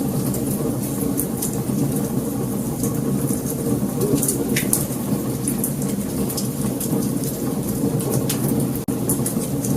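Wood fire burning, a steady low rumble of flames with frequent sharp crackles and pops throughout. A momentary dropout in the sound about nine seconds in.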